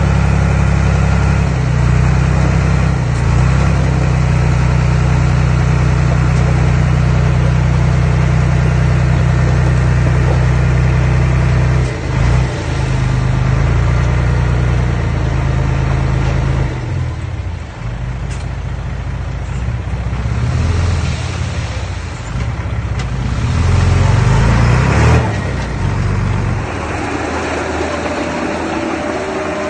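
Heavy earthmoving machine's engine running. It is loud and steady for about twelve seconds, then eases and rises again several times, swells briefly at about 24 seconds, and settles lower near the end.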